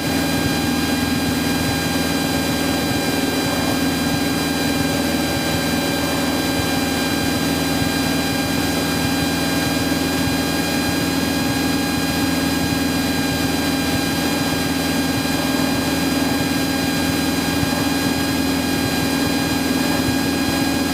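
Cessna 172's piston engine and propeller droning steadily in flight, heard from inside the cabin, with an even pitch and no change in power.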